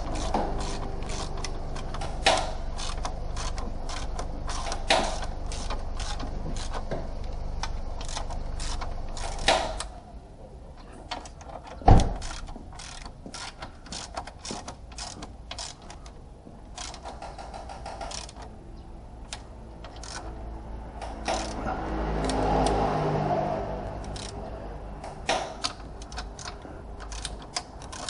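Scattered metallic clicks and knocks of tools and parts being handled during mechanical work, with one loud knock about twelve seconds in, over a low hum.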